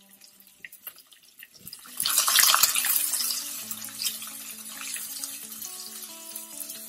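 Chopped onion and garlic sizzling in hot oil in a frying pan. The sizzle jumps up loudly about two seconds in as a spatula stirs the pieces into the oil, then eases to a steady fry.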